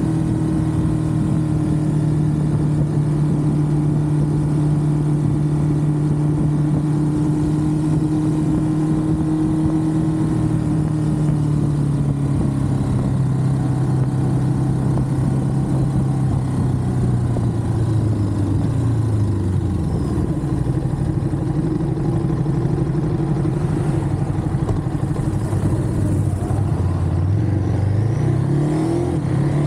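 Ducati Monster's L-twin engine running at a steady cruise. Its note then falls slowly as the bike slows, and near the end it rises in several quick steps as the bike accelerates up through the gears.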